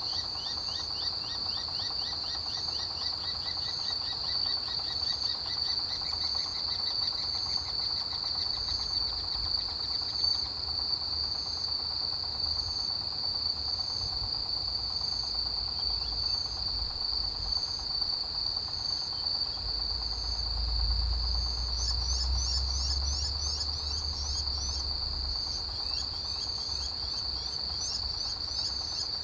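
Autumn chorus of grass insects: a steady high trill, overlaid by other insects chirping in quick pulsed series at different pitches. A faint low rumble swells for a few seconds about two-thirds of the way through.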